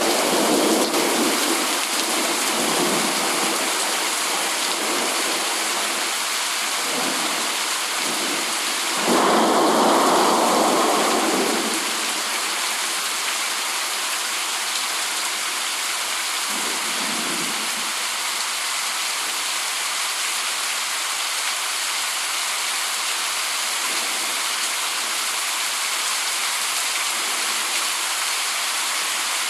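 Steady rain hiss with rolls of thunder: a rumble fading over the first few seconds, a louder roll about nine seconds in that lasts a few seconds, and a brief one around seventeen seconds.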